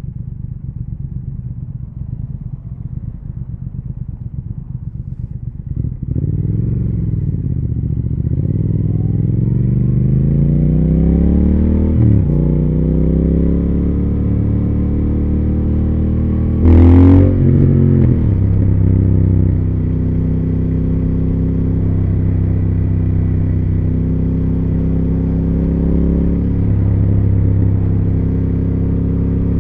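Triumph Speed Twin 1200's parallel-twin engine and exhaust running low at first, then pulling away about six seconds in, rising in pitch through the gears with a shift at about twelve seconds, and settling to a steady cruise. A short, loud burst comes about seventeen seconds in.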